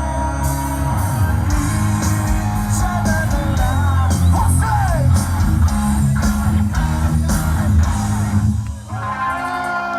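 Live rock band playing loud through a festival PA: electric guitars, bass and drums with a singer's voice; the music drops briefly for a moment near the end.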